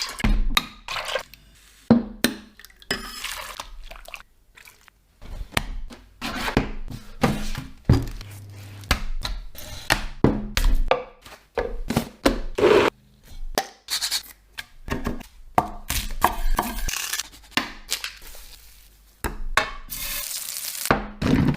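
Food-preparation sounds: a string of irregular knocks, clinks and scrapes of utensils, pots and wood, with a stretch of hiss near the end.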